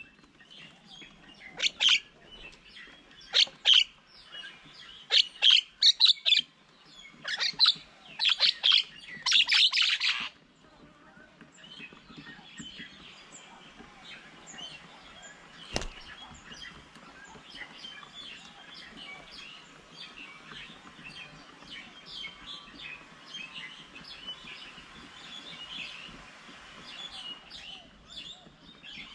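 Birds calling. Loud, harsh calls come in quick clusters for about the first ten seconds, then give way to fainter, steady chirping and chattering. A single sharp click comes about halfway through.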